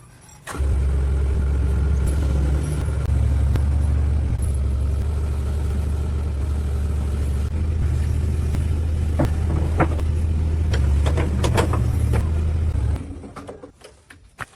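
A steady low machine hum with a hiss over it, starting abruptly about half a second in and cutting off about thirteen seconds in, with a few sharp clicks near the end.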